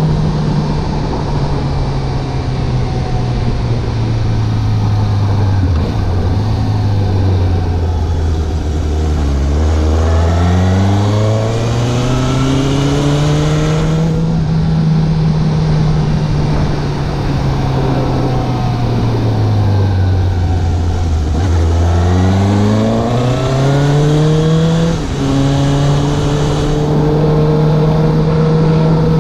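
Suzuki GSX750 motorcycle's inline-four engine under way: it holds steady revs, twice drops in pitch as the bike slows, then rises again as it accelerates. About 25 seconds in the revs step down sharply at a gear change, with a steady rush of wind noise underneath.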